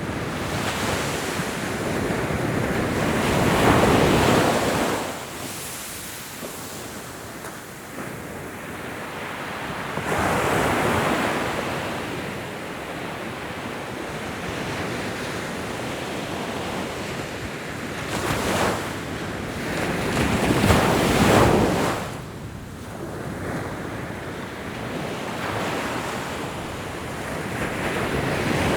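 Ocean waves breaking and washing in, a steady rushing surf that swells into a louder crash every several seconds, with two crashes close together in the second half.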